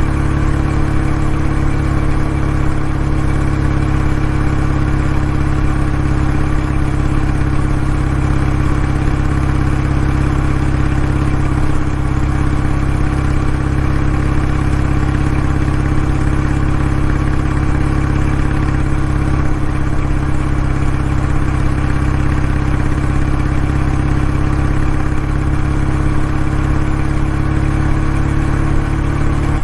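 Kawasaki W650's air-cooled parallel-twin engine and exhaust running steadily at an even, unchanging speed.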